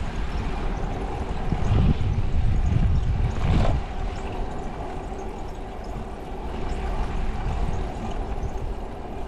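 Wind rushing over the microphone and tyre and road rumble from a bicycle being ridden, heavier for a couple of seconds in the middle.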